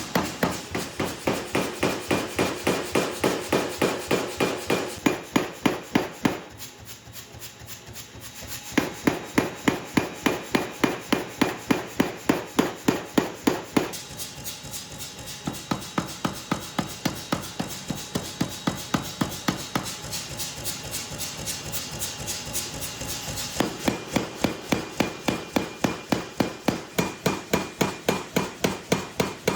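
Forging hammer blows on a hot steel billet, a steady run of sharp strikes at about three a second, lighter for a couple of seconds near the seven-second mark.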